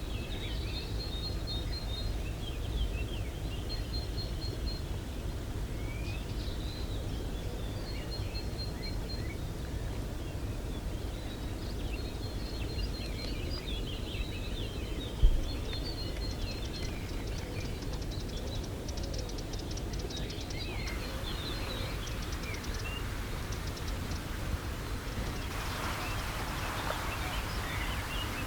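Small birds chirping and calling, with a short high trill repeated every couple of seconds, over a steady low outdoor rumble. A single sharp knock sounds about halfway through.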